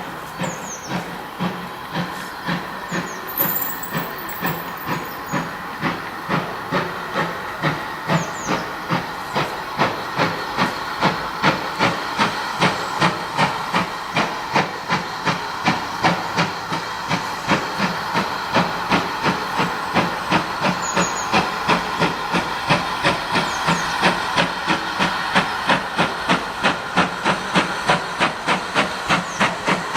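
GWR 5600-class 0-6-2 tank engine No. 6695 working a train under steam: a steady run of exhaust chuffs, about two to three a second, over a hiss of steam, growing a little louder.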